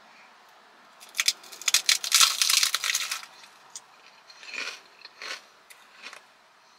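Close-up crunching of a crisp fried rolled taco being bitten and chewed: a dense run of crackles from about a second in lasting about two seconds, then a few quieter chewing crunches.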